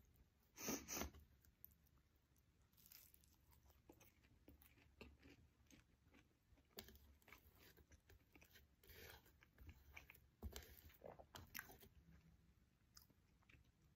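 A person eating a chile omelette: quiet mouth-close chewing and biting with irregular soft crunches. The loudest bites come about a second in and about ten seconds in.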